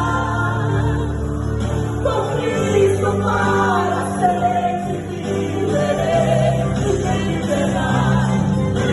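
A choir singing a gospel hymn with wavering, vibrato-laden voices over steady instrumental backing notes.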